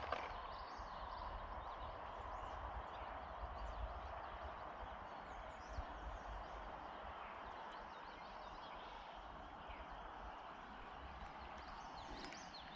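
Steady rush of a trout creek's running water, with wind gusting on the microphone and a few faint high chirps.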